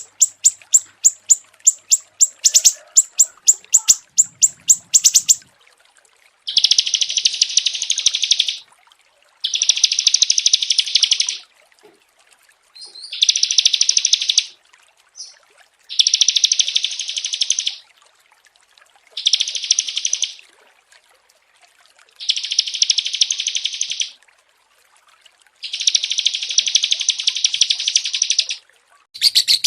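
Small songbird song: first a rapid run of sharp, high repeated chirps, about six a second, then from about six seconds in a series of seven dense, high trills, each two to three seconds long, separated by pauses of about a second.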